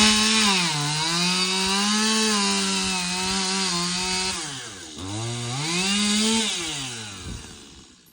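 Small engine running at high revs with a buzzing tone that dips and recovers, eases off about four and a half seconds in, revs up again and then falls away and fades out near the end.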